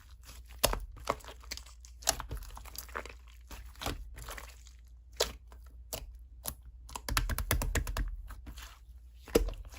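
Slime being squeezed and poked by hand, making irregular sticky clicks and crackles, busiest a little past the middle.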